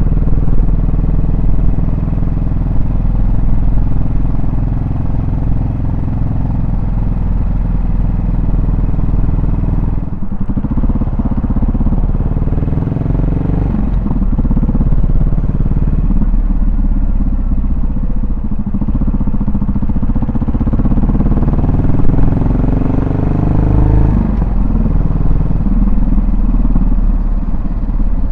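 Yamaha SR400's air-cooled single-cylinder four-stroke engine and exhaust under way, its note rising and falling with the throttle and gear changes several times.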